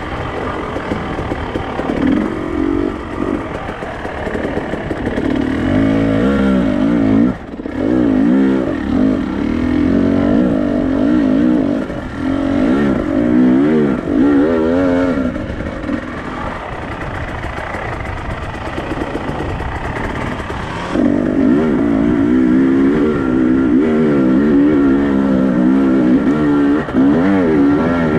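Off-road motorcycle engine being ridden, its revs rising and falling quickly over and over as the throttle is worked, with a brief drop about seven seconds in.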